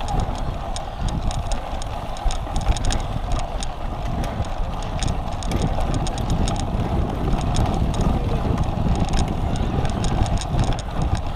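A cyclocross bike rolling over rough ground with wind on the microphone: a steady low rumble with scattered light rattling clicks.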